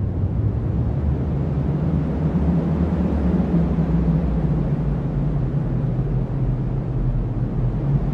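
Strong cyclone wind blowing as a steady, deep rumble with slow swells, carrying little high hiss.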